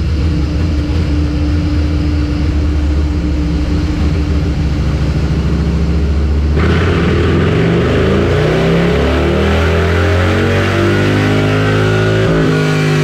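Harley-Davidson Milwaukee-Eight V-twin, built out to 128 cubic inches with a Two Brothers 2-into-1 exhaust, running under load on a dyno. It holds steady revs, then about six and a half seconds in the throttle opens and the engine pulls, its pitch rising steadily for about six seconds before dropping back near the end.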